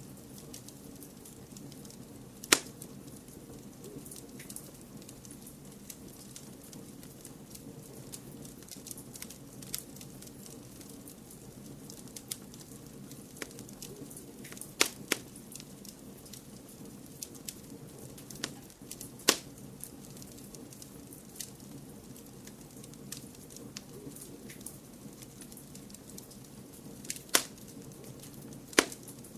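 Wood fire crackling, with sharp pops at irregular intervals, a handful of them loud, over a steady low hiss.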